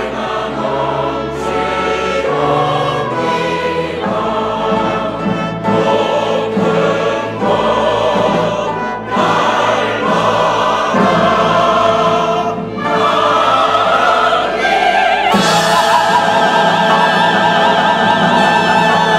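Church choir singing a hymn in harmony, with vibrato, swelling into a loud sustained chord about fifteen seconds in, at the close of the piece.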